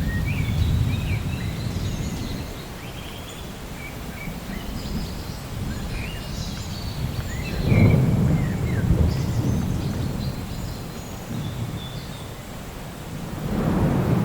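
Thunder rumbling. A low rumble fades over the first couple of seconds, a louder peal breaks about eight seconds in and dies away over a couple of seconds, and another rumble builds near the end. Birds chirp throughout.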